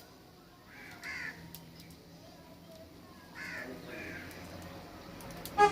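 A crow cawing a few short, harsh times, about a second in and then twice more a little later. A vehicle horn toots loudly right at the end.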